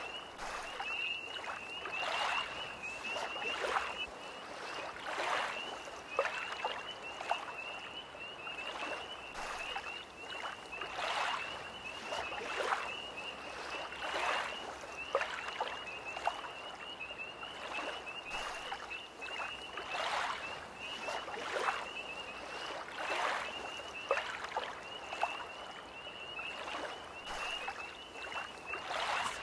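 Small lake waves lapping and splashing at the shore, a wash about every second, under a steady high trill of a tree frog chorus calling without pause.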